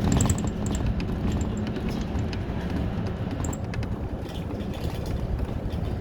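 City bus engine running and road noise heard from inside the cabin as the bus drives along, steady and low, with a few light high ticks near the start.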